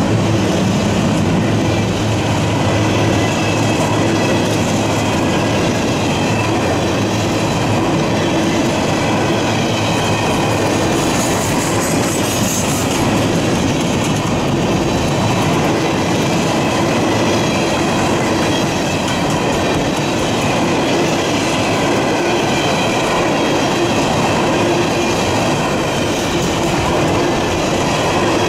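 Freight train cars rolling past at track side: a steady loud rumble and rattle of wheels on rail, with held whining tones of wheel squeal over it.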